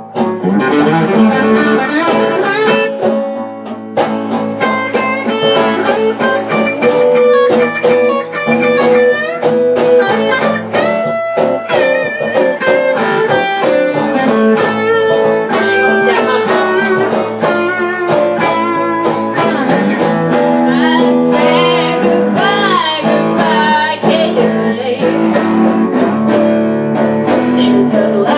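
Blues guitar playing an instrumental passage, with some bent, gliding notes over a steady low bass line.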